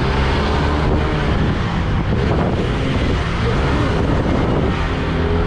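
Motorcycle engine running steadily under heavy wind noise on the microphone, its pitch wavering somewhat in the middle.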